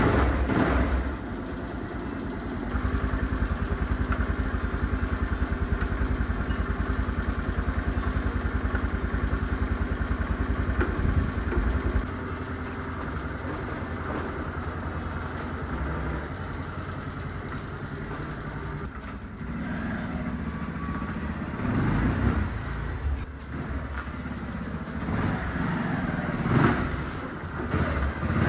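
Motorcycle engine running at idle with a steady, even pulse after an oil change. It is louder for a stretch early on, drops back about twelve seconds in, and has a few brief swells near the end.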